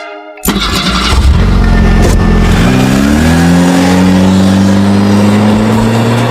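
An engine revving, its pitch rising about two and a half seconds in and then holding steady, over a loud rushing noise; the sound cuts off suddenly at the end.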